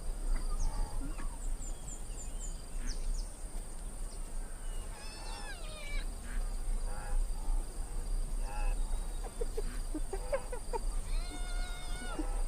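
Spotted hyenas calling: short high whines and squeals that rise and fall in pitch, a cluster about five seconds in and more near the end, over a steady high insect drone.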